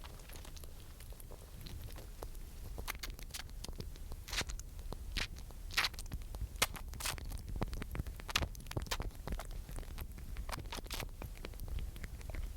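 A squirrel crackling and scratching close to the microphone: quick irregular clicks and crunches, busiest in the middle, over a low steady rumble.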